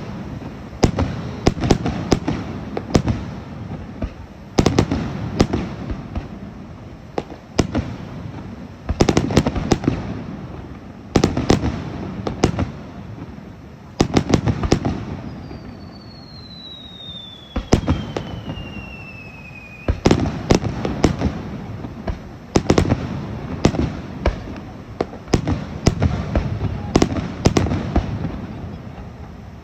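Aerial fireworks shells bursting one after another, sharp bangs with crackling between them. About fifteen seconds in, a long whistle falls steadily in pitch over some five seconds.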